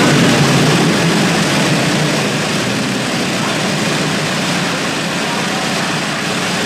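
Ferrari 150° Italia Formula One car's V8 engine running, a loud, steady drone with no clear revs up or down.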